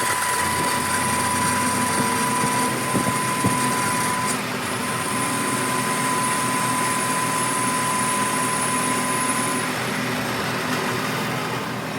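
A machine running steadily, with a high, even whine that stops about ten seconds in.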